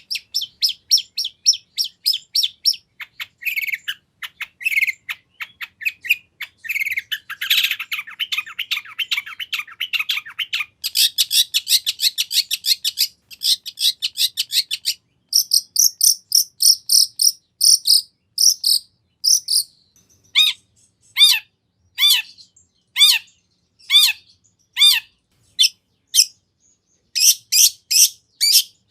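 Long-tailed shrike singing a fast, varied song full of imitations of other birds. Each phrase is a rapid string of sharp repeated notes, about five a second, and the pattern changes every few seconds. Past the middle it slows to single notes about one to two a second, then speeds up again near the end.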